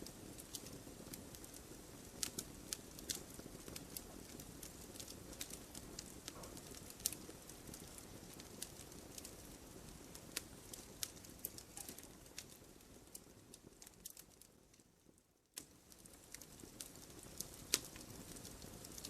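Wood fire crackling: scattered sharp pops and snaps over a low, steady rumble of burning. The sound fades almost away about fourteen seconds in and returns abruptly a second or so later.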